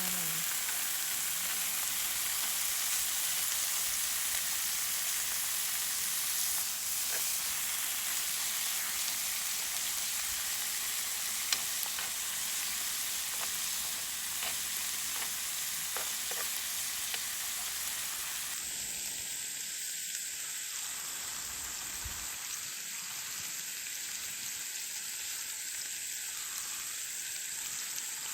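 Food sizzling steadily in a hot pan, with a few light clicks.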